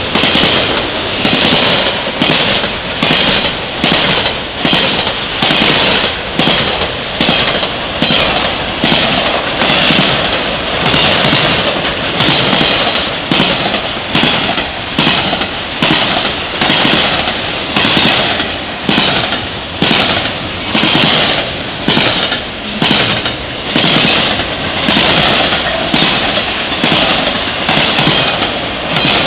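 Double-stack intermodal freight train rolling past close by: steel wheels clacking over the track in a steady, even rhythm over a continuous rumble and hiss of the cars.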